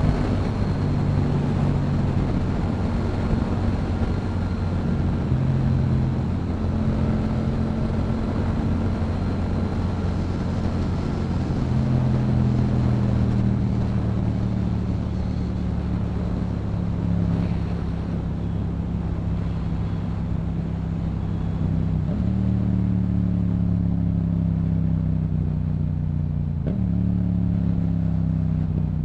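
Yamaha MT-07's parallel-twin engine running through a Yoshimura exhaust while cruising, its note holding steady and sagging slowly, then stepping up sharply in pitch twice in the last seven seconds, with wind noise underneath.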